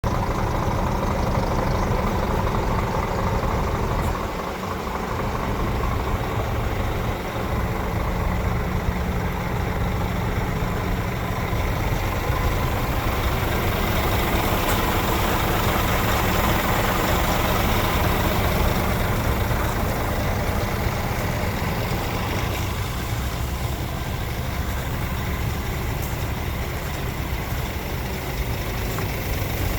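Scania G410 truck's diesel engine idling steadily.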